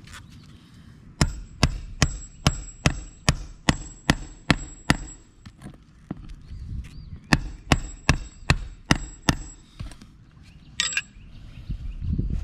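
Hand hammer driving nails into roof shingles during a shingle repair attempt. There are two runs of sharp, evenly paced strikes, about ten and then about six, roughly two and a half a second, each with a high metallic ring.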